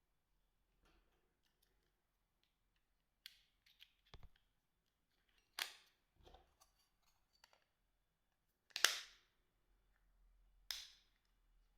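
Sharp plastic clicks and snaps from a Sagem SG322i mobile phone being handled: four louder ones a couple of seconds apart, with fainter ticks between them.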